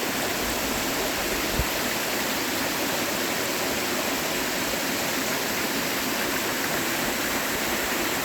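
Steady rush of flowing water from a mountain stream, with one brief low thump about a second and a half in.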